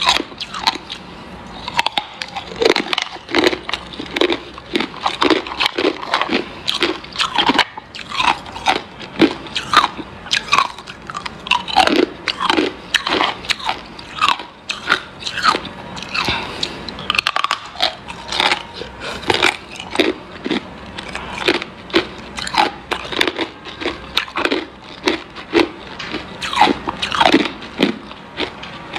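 Hard ice being bitten and chewed close to the microphone: loud, irregular crunches, several a second, as the ice cracks between the teeth.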